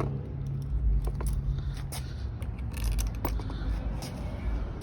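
Scattered light clicks and scrapes of parts being handled, over a steady low hum.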